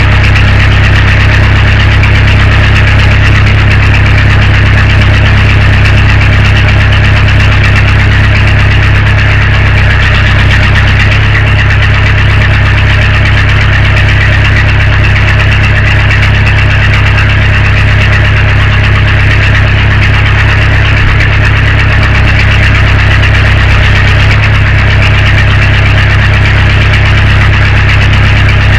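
Case 580 backhoe's engine running at a steady speed, loud and unchanging throughout.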